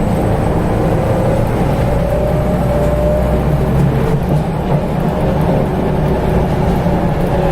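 Scania L94UB Wright Solar single-deck bus heard from inside while moving: a steady diesel engine rumble with the whine of its ZF automatic gearbox, which rises slightly in pitch about two to three seconds in.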